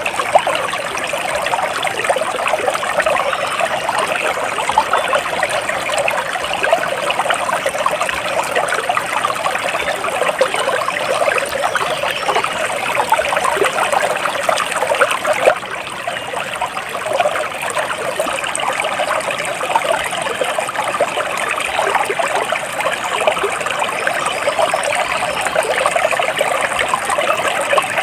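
Flowing water trickling and splashing steadily, like a small stream over stones, easing briefly about halfway through.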